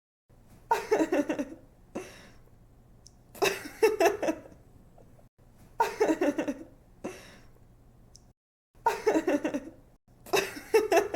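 A young woman laughing: five short giggling fits, each a quick run of breathy ha-ha pulses lasting about a second, separated by brief pauses. It is the same laugh repeated on a loop.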